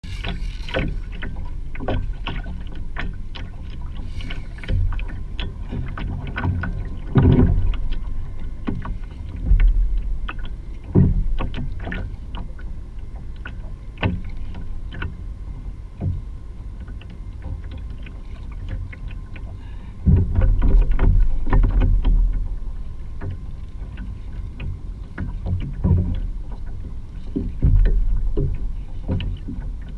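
Water slapping and knocking against the plastic hull of a Hobie Pro Angler 14 kayak under way, in irregular short knocks every second or two over a steady low rumble.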